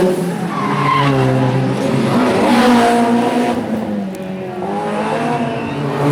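Historic rally car's engine revving hard at speed, its pitch climbing and falling back with gear changes, about twice, before rising again near the end.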